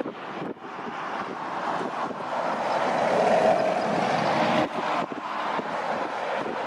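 Antonov An-124's four D-18T turbofan engines running loud, swelling to their loudest around the middle with a faint steady whine, with wind buffeting the microphone.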